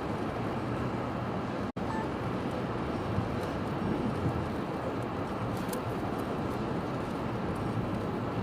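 Storm wind blowing across the microphone, a steady rushing noise. The audio cuts out for an instant about two seconds in.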